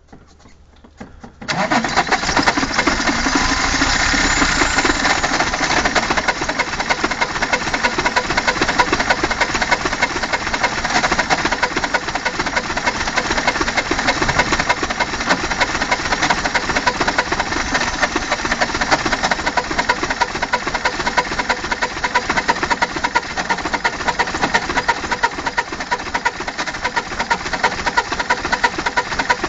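Opel Omega 2.5 TDS straight-six turbodiesel on a cold start: it cranks, catches suddenly about a second and a half in, then runs steadily.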